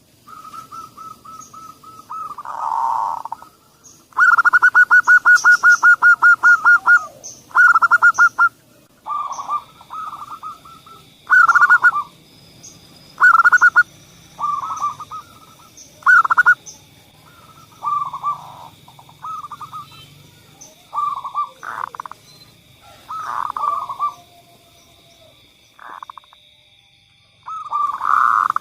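Zebra doves (perkutut) cooing: short trilled coo phrases repeated every second or two, with one long, fast rattling phrase about four seconds in. A steady high-pitched whine joins about nine seconds in.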